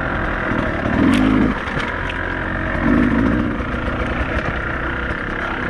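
Beta 200RR two-stroke enduro motorcycle engine running under way on a trail, revving up and back down twice, about a second in and about three seconds in.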